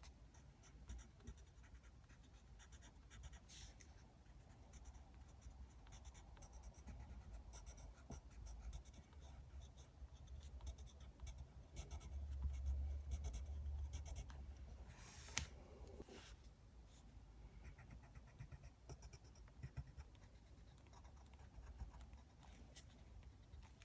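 Faint scratching of a pen writing on diary paper, with small ticks of paper and desk handling. A soft low bump a little before the middle and one sharp click shortly after.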